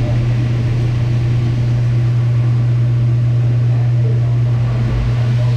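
Steady low electric motor hum, unchanging throughout.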